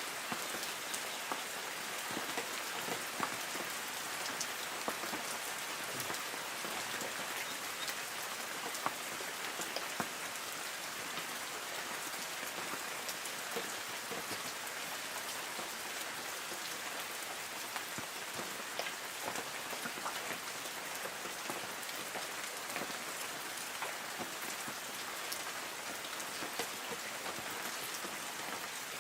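Light rain falling on forest trees: a steady hiss of rainfall with many small, scattered drips and patters of drops on leaves.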